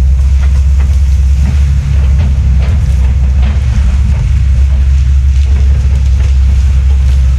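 Heavy land-clearing machine's diesel engine running steadily with a deep rumble, with scattered sharp cracks on top.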